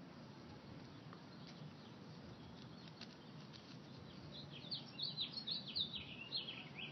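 A bird chirping in a quick run of short, high, falling notes, about five a second, starting about two-thirds of the way in over faint room noise.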